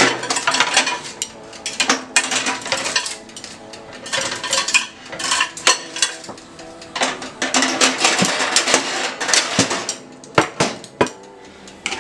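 Metal utensils clinking, knocking and scraping against pots and dishes, in irregular bursts of clatter.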